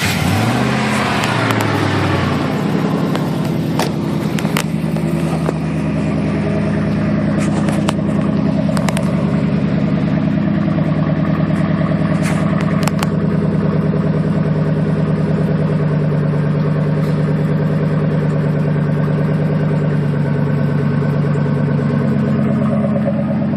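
A 2000 Ford F-150's 4.6-litre V8 running through a Flowmaster 40 Series exhaust, just after a cold start. It flares at a fast idle and settles over the first couple of seconds into a steady, deep idle, with a few light clicks.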